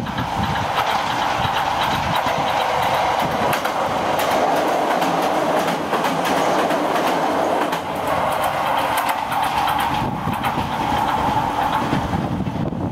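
Toyama Chiho Railway electric train passing close by on the track over a steel girder bridge, its wheels clattering over the rail joints under a steady running rumble.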